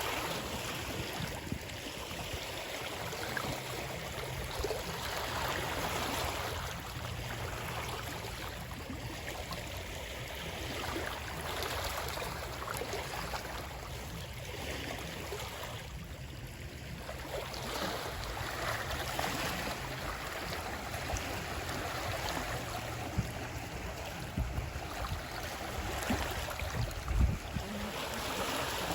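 Moving water: a continuous rushing and splashing that swells and eases, with a few low thuds.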